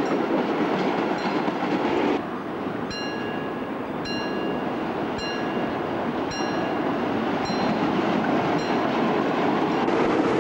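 Freight train wagons rolling past with a steady rumble, then, after a cut, an OSE diesel locomotive running close by. Throughout, a level-crossing warning bell rings about once a second.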